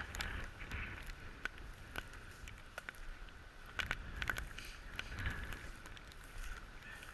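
Rustling, clicks and knocks of goose decoys being handled, scattered irregularly and busiest about four seconds in, with wind rumbling on the microphone.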